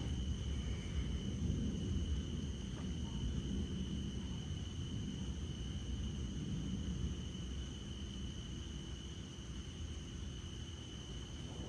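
Night insects chirring in a steady, unbroken drone over the low rumble of distant thunder, which slowly fades.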